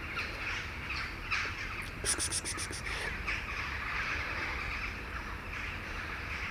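Birds calling, with a rapid rattling run of about eight clicks about two seconds in.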